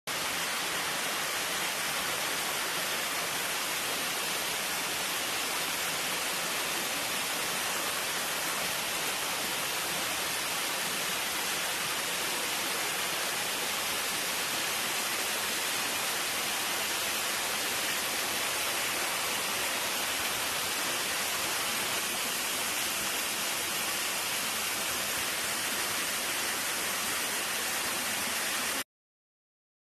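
A steady, even rushing noise with no breaks, cutting off abruptly about a second before the end.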